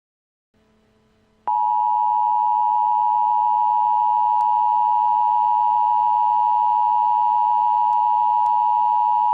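Emergency Alert System attention signal: a loud, steady two-tone alert beep held for about eight seconds. It starts abruptly about a second and a half in, after faint hiss, and cuts off at the end. It announces the urgent warning message that follows.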